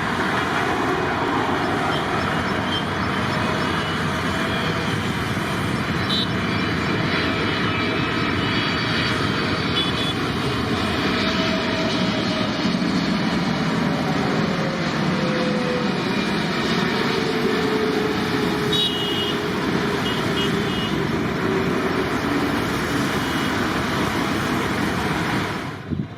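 Jet airliner's engines at takeoff power: a loud, steady rush, with a faint tone that slides slowly down in pitch midway as the aircraft passes.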